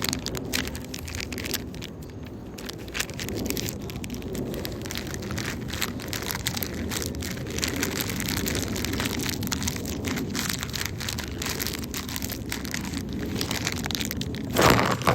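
Wind and water rushing over a phone microphone aboard a motorboat, a steady noise full of crackles. A louder burst comes near the end.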